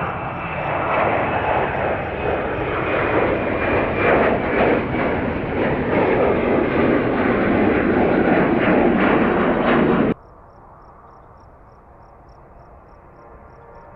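Jet airliner's engines at takeoff power, loud and growing louder, with a high whine that slowly falls in pitch. About ten seconds in the sound cuts off abruptly to a much quieter steady hum.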